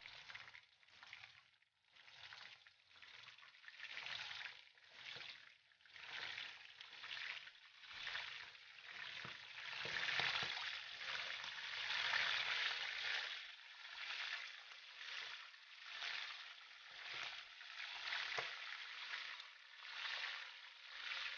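Chicken livers sizzling as they fry in hot oil with sautéed garlic in a wok. The sizzle swells and fades about once a second and grows louder over the first ten seconds.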